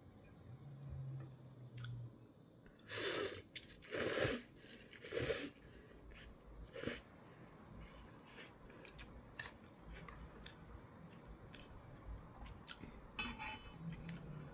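A person eating instant ramen: three loud slurps of noodles about a second apart a few seconds in, then quieter chewing with small scattered clicks.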